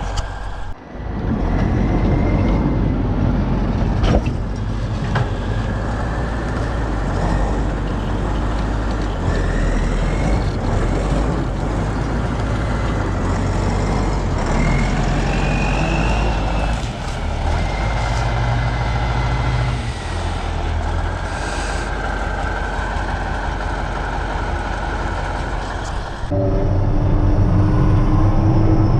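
Kirovets K-700A tractor's diesel engine running after an overhaul, during its run-in: a steady low drone with a faint high whine that rises and falls. The sound changes abruptly about a second in and again near the end.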